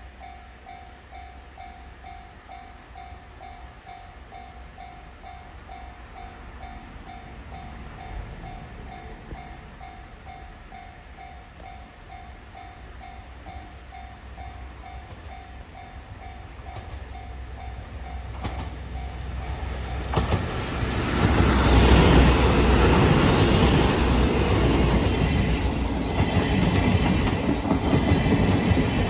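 A steadily repeating warning-bell ding over a low rumble, then the JR East GV-E197 diesel-electric train hauling 12-series coaches comes up loud from about twenty seconds in, its wheels clacking over the rail joints as it passes.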